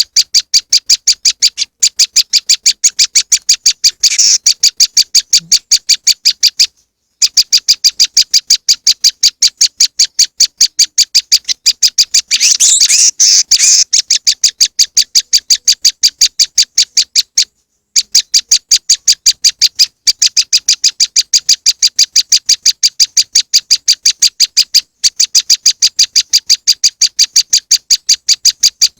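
Prenjak lumut bird-lure recording: a fast, steady series of high, sharp call notes, about four a second. It is broken by a few short pauses and by a denser chattering burst near the middle.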